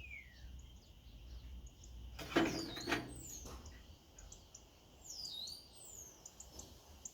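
Small songbirds chirping, with short high notes and falling whistles repeating. About two and a half seconds in, a brief louder clatter.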